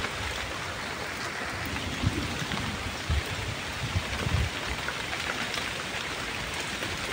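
Steady rain falling, with a few soft low thumps about two, three and four seconds in.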